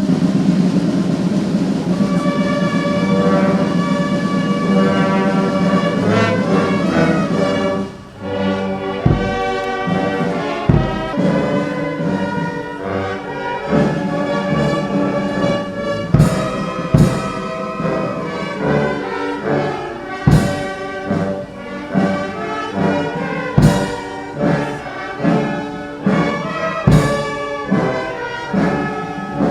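Brass band music: full sustained brass chords, then from about eight seconds in a steady march-like beat with loud drum and cymbal strikes every second or two.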